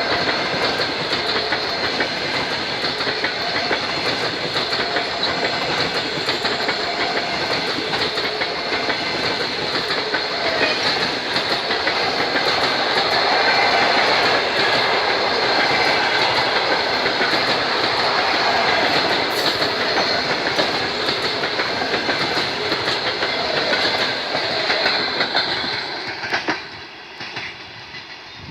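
Express passenger train running past at speed, its wheels clattering steadily over the rail joints; the sound dies away sharply near the end as the train passes.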